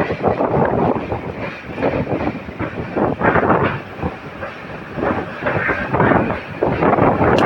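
Passenger train running along the track, heard from on board: continuous rumble and irregular clatter of wheels on the rails, swelling and easing in loudness.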